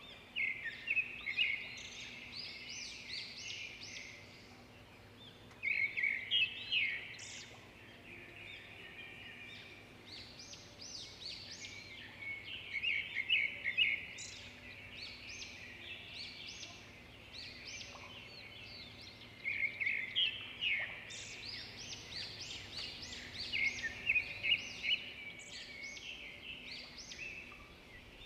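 Birds chirping in bursts of rapid high chirps, a new burst every few seconds.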